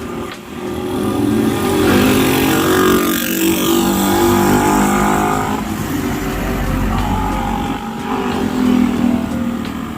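Motor vehicle engines on the road close by, a vehicle passing and loudest from about two to five seconds in, with another swell near nine seconds.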